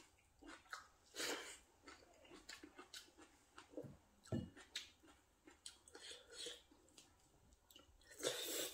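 Faint chewing and mouth sounds of someone eating rice and curry by hand, with scattered small clicks and taps of a spoon and dishes. A brief louder rustling noise comes near the end.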